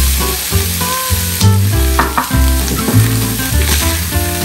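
Onion and bell pepper frying in butter in a hot pan, sizzling steadily as they are stirred and mixed. Background music with a bass line plays underneath.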